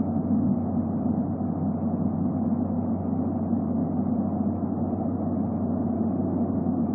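Steady low rumble with a faint hum underneath, unchanging throughout, with no distinct calls or knocks.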